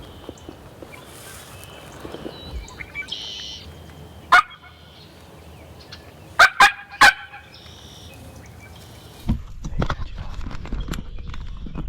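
Loud turkey calls: one short call about four seconds in, then three quick ones a couple of seconds later, over faint songbirds. A rustling of movement starts near the end.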